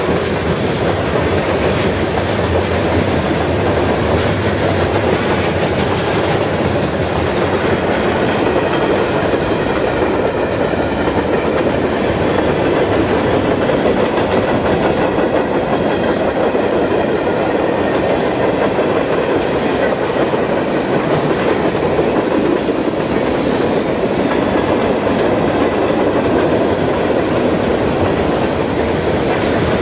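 Freight train cars rolling past on the Norfolk Southern line, a steady loud noise of steel wheels on rail.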